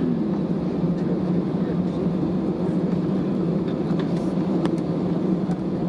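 Steady cabin hum inside an Airbus A320neo after landing, with a few faint clicks about four seconds in.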